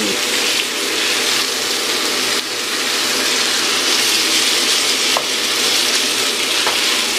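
Curry frying with a steady sizzle in a metal karahi as a wooden spoon stirs it lightly, with one faint tap of the spoon about five seconds in.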